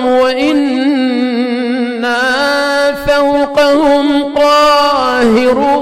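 A man's solo melodic Quran recitation in the Iraqi style, drawing out each word in long held notes with quick wavering ornaments between them.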